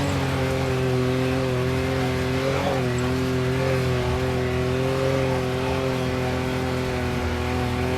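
Off-road vehicle engine running at steady, moderate revs while crawling along a rocky trail, its pitch wavering slightly and dipping briefly about two and a half seconds in.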